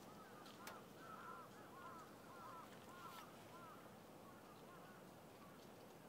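Faint bird calls: a quick run of short, arching chirps, thick for the first three seconds or so and then thinning out, over a steady background hiss.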